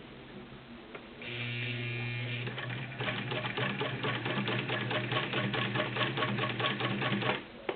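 Vintage Singer 306K electric sewing machine running: the motor starts about a second in with a steady hum and whine, then the needle mechanism sews with a rapid, even ticking. It stops shortly before the end.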